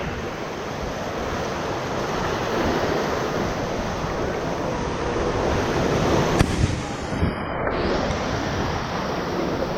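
Whitewater rushing steadily around a paddle raft running a rapid. There is a single knock about six and a half seconds in, and just after it the sound goes briefly muffled.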